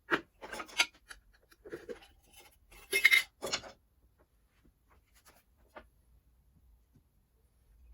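Short clinks, knocks and scrapes of hand tools and metal parts being handled, a cluster of them loudest about three seconds in, then a few faint ticks.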